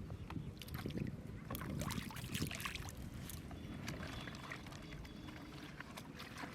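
River water splashing and lapping in irregular small splashes over a low rumble.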